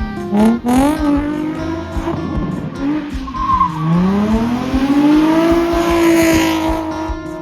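Nissan 350Z's V6 revving in short quick climbs and drops, then falling away and climbing into a long held high rev with tyres squealing, over background music.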